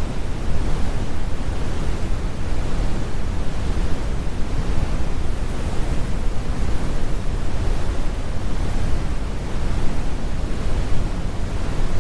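Steady, deep brown noise, a computer-generated rumble with most of its weight in the lows and the highs rolled off, unchanging throughout.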